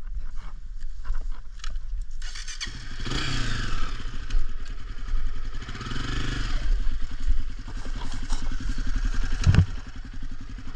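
A dirt bike engine starts running about two and a half seconds in. It revs up and back down twice, then runs steadily, with a single thump near the end.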